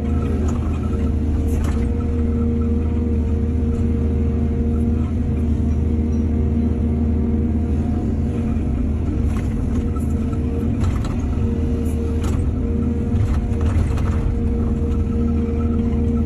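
Excavator's diesel engine running steadily under load, with a held whine and occasional knocks and clanks.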